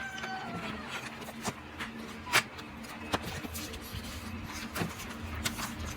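Scattered clicks and small knocks of a Sew Simple K1127 sewing machine and its fabric being handled with the motor stopped, the loudest about two seconds in, over a faint low hum.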